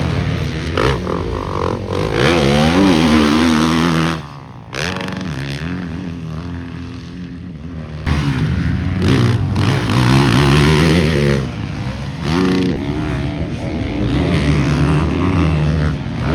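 Motocross dirt bike engines revving hard on the track, the pitch climbing and dropping again and again with throttle and gear changes. The sound dips sharply about four seconds in and changes abruptly about eight seconds in.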